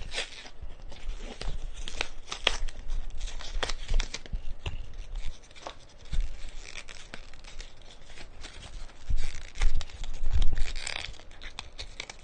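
Packaging being torn open and handled, with rustling and scattered clicks, louder about nine to eleven seconds in.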